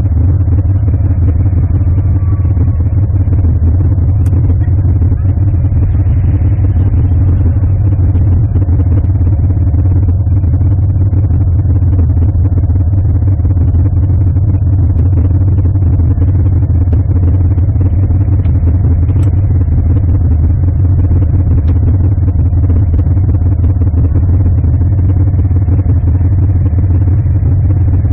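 A car engine running at a steady speed, a loud, low, even drone that does not rise or fall.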